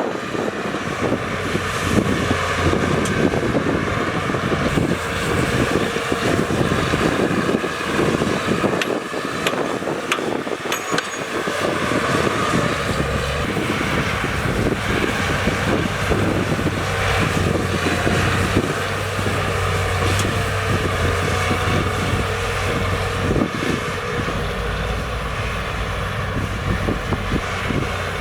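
Diesel engines of heavy earthmoving machinery running steadily, with a low engine note growing stronger about halfway through.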